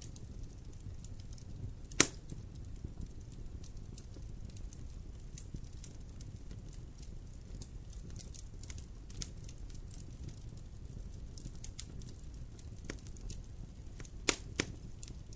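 Wood fire in a fireplace crackling over a low steady rumble, with a sharp loud pop about two seconds in and two more pops near the end.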